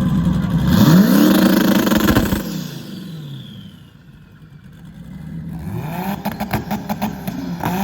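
Car engine revved hard and held high for over a second before dropping back. It is revved again near the end, with a rapid run of sharp pops.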